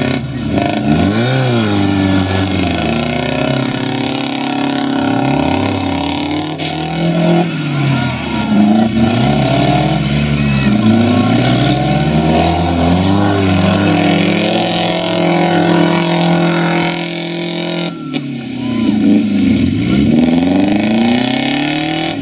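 Demolition-derby cars' engines revving, the engine notes rising and falling again and again as several cars accelerate and back off.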